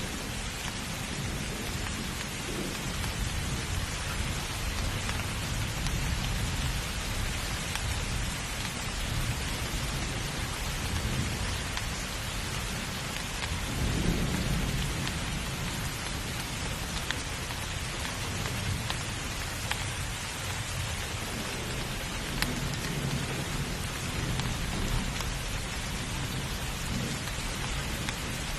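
Rainstorm: steady heavy rain with low thunder rumbling underneath, the rumble swelling about halfway through.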